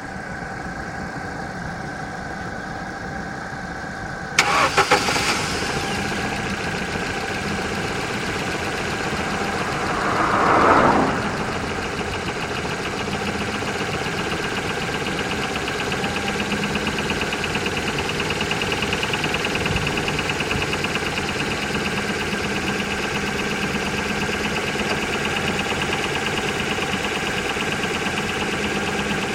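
Ford Focus II 1.6-litre 100 hp petrol engine with a knock. A short loud burst comes about four seconds in, the revs rise briefly around ten seconds, and then the engine idles steadily with an even, repeating beat.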